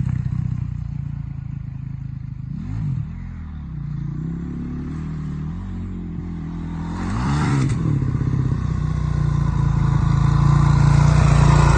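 Honda CRF450 four-stroke single-cylinder motocross bike running, with two short throttle blips that rise and fall in pitch about three and seven seconds in, then growing louder near the end.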